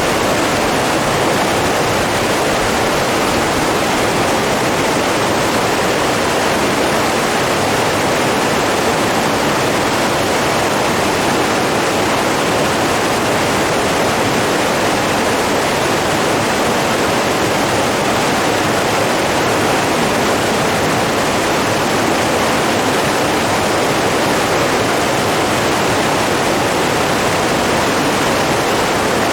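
Running water rushing in a steady, unbroken flow, with no pauses or surges.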